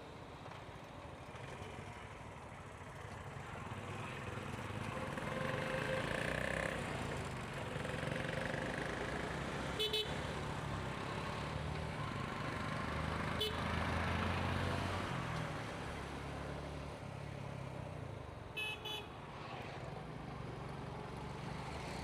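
Motorcycle engine running under way with road and traffic noise. Short horn beeps sound about ten seconds in and again a few seconds later, then a quick double toot near the end.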